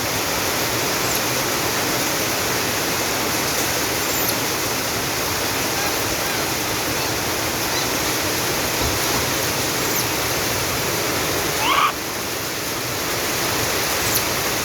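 Heavy rain falling, a steady loud hiss throughout. About twelve seconds in, a short rising call rises briefly above it.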